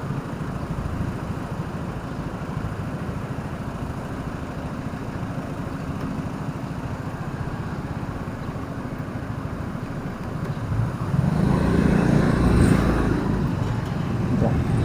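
Steady engine and road noise of a vehicle driving in city traffic, growing louder about eleven seconds in.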